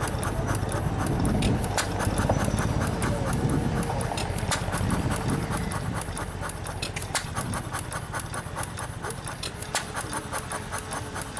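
Half-scale Fairbanks Morse Type T vertical hit-and-miss engine running: a rapid, steady clicking of its valve gear and ignitor. There are heavier low firing puffs about a second in, at about three and a half seconds and at about five seconds, then it coasts on its flywheels without firing, the usual hit-and-miss governing at light load.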